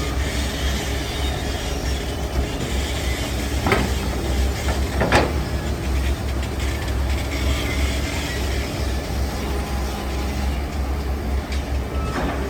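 Heavy construction machinery running: a steady low diesel engine rumble with metallic clatter and scraping over it, and two sharper clanks about four and five seconds in.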